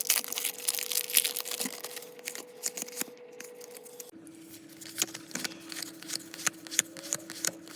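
Pokémon trading cards being flipped and handled: quick clicks and rustles of card stock with some crinkling. A faint steady hum runs underneath and drops lower about four seconds in.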